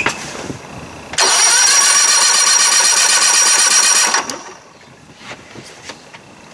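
Electric starter cranking a 1992 Johnson 60 hp three-cylinder two-stroke outboard over for about three seconds during a compression test. It starts abruptly about a second in, runs steadily with a high whine, and cuts off sharply.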